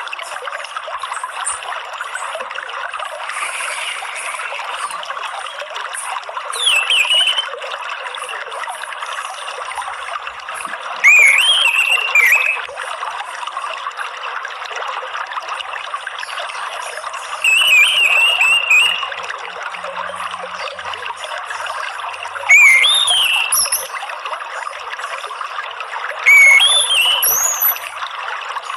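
Water trickling steadily. Over it an orange-headed thrush sings five short whistled phrases, each about a second long and sliding up and down in pitch.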